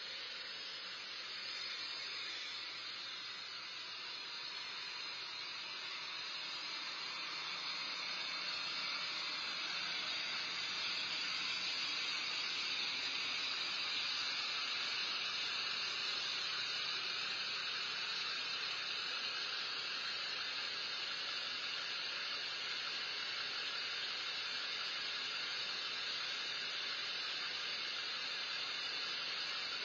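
A steady, even hiss with no other distinct sounds, growing a little louder over the first ten seconds or so.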